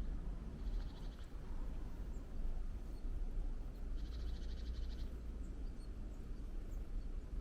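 A bird giving a fast, high chattering trill twice, once briefly and then for about a second, over a steady low outdoor rumble.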